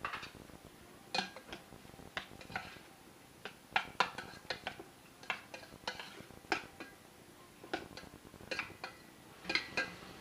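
Irregular light clinks and knocks of kitchen utensils against dishes, about one or two a second, as a fish marinade is prepared.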